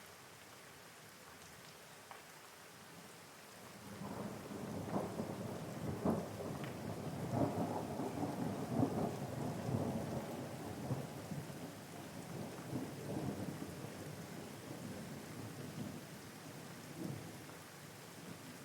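Steady rain with a long roll of thunder that comes in about four seconds in, crackles loudest for several seconds, then slowly fades toward the end.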